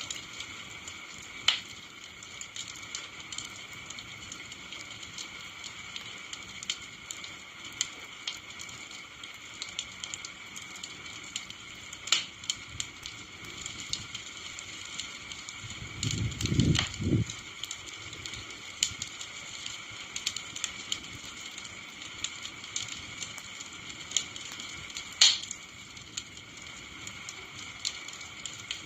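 Wood campfire burning: a steady hiss with scattered sharp crackles and pops, three of them much louder, near the start, in the middle and near the end. About two-thirds of the way through, a brief low rumble lasting a second or two.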